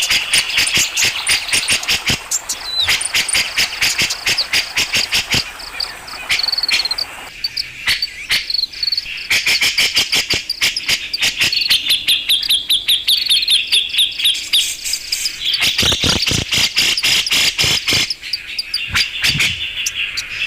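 Bird-lure recording of cucak jenggot (grey-cheeked bulbul) calls: dense, rapid, high-pitched chattering and trilled chirps, played as bait to draw wild birds of the same species. The chatter keeps up without a break, with a few harsher bursts of rattling notes in the second half.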